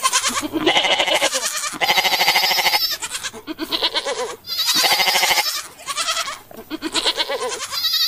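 Sheep bleating over and over: a string of long, wavering bleats, about a second each, one after another with short breaks.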